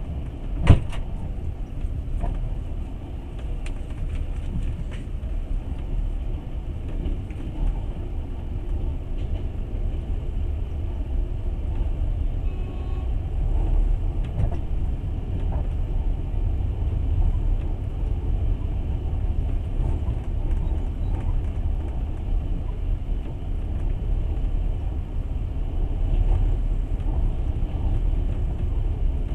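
Passenger train running: a steady low rumble of wheels on track heard from inside the carriage, with one sharp knock about a second in.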